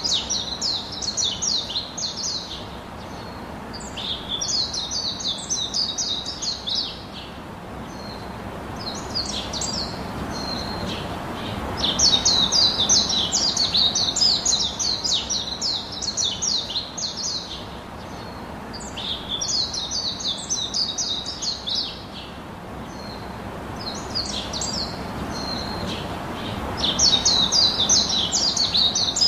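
Small birds chirping in rapid, chattering bouts of a few seconds each, with short pauses between them. Under the chirping runs a steady low hiss.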